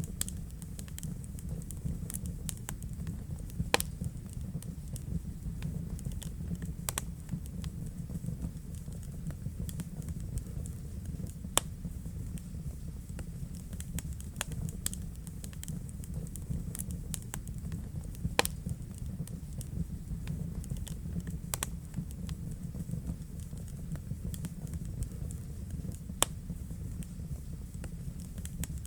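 Wood fire burning in a fireplace: a steady low rumble of flames with scattered sharp crackles and pops, a few louder pops every several seconds.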